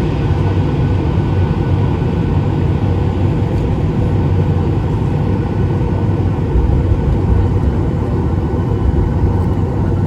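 Steady low rumble inside a Boeing 737-800 cabin, its CFM56 engines running at low power on the ground before takeoff.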